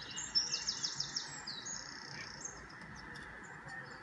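Recorded songbird chirps and trills playing through an iMac's speakers: a fast run of high chirps in the first second and a half, then thinner high whistles, over a steady hiss.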